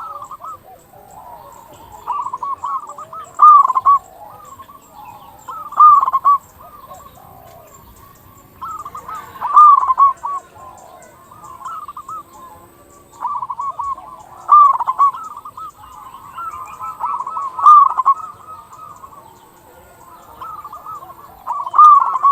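Zebra dove (perkutut) cooing its song: short phrases of quick, curling notes repeated every two to three seconds.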